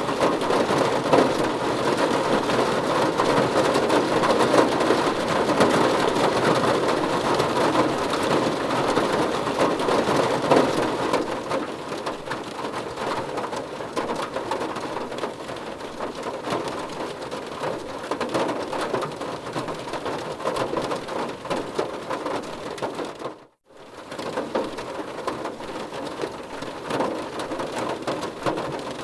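Heavy rain falling steadily as a dense hiss of drops, easing somewhat about a third of the way through. The sound cuts out for a split second about two-thirds of the way through, then resumes.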